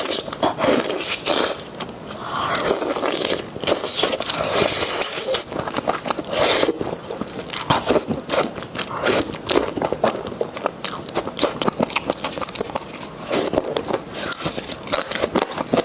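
Close-miked eating: a mouthful of spicy noodles and toppings being bitten and chewed, with many short, wet smacking clicks and occasional crunches.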